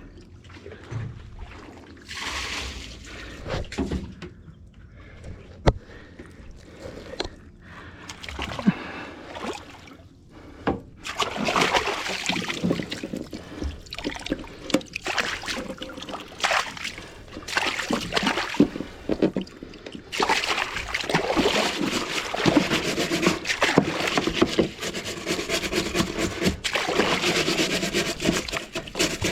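Water splashing and sloshing against a small boat. Scattered at first, busier from about eleven seconds in, and nearly continuous from about twenty seconds in.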